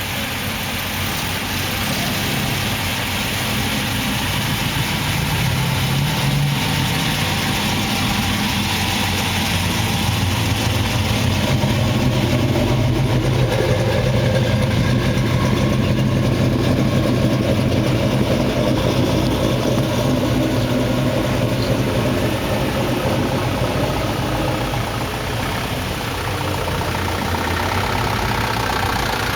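Car engines running as show cars drive slowly past in a line, the sound swelling as one passes close through the middle and easing off near the end.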